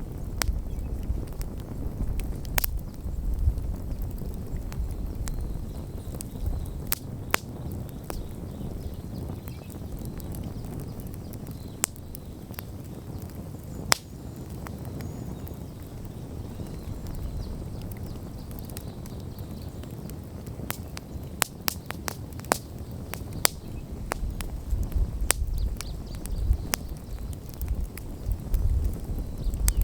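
Wood campfire crackling, with sharp pops at irregular intervals that come thicker in quick clusters near the end, over a steady low rumble.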